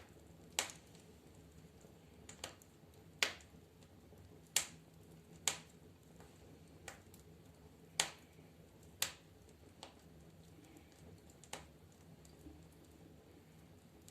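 Burning firewood crackling in a fireplace stove: irregular sharp pops and snaps, roughly one every second or two, over a faint steady background.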